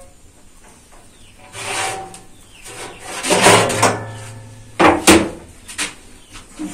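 Black metal baking tray scraped and slid out of a wood-fired brick oven, then set down with two sharp clanks about five seconds in and a few lighter knocks after.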